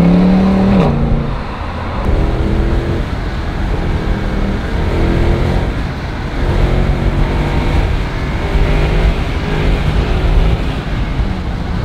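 Mercedes-Benz C63 AMG's 6.2-litre V8 heard from inside the cabin under acceleration, its note climbing in pitch and dropping back several times over a heavy low rumble and road noise.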